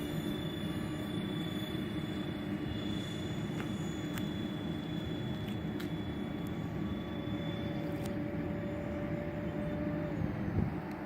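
Electric ducted fan of a Dynam Turbojet 550 (Cessna Citation II) RC model jet running steadily: a thin whine holds its pitch over a steady low rumble. The whine drops slightly about ten seconds in, and a short thump follows near the end.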